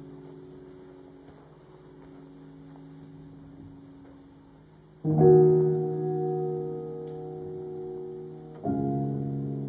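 Background piano music: slow, sustained chords, a soft one fading away and then a louder chord struck about halfway through and another near the end.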